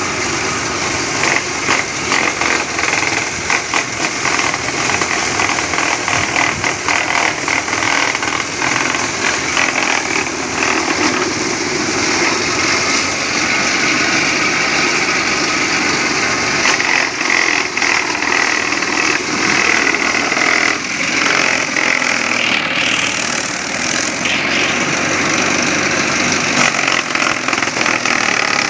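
Motorised corn thresher running without a break, its engine sound mixed with a dense, continuous rattle from the shelling drum.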